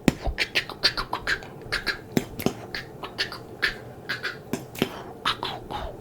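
Fast, close-miked ASMR triggers: an irregular run of sharp clicks, pops and short swishes right on the microphone, about four a second, with a beatbox-like rhythm.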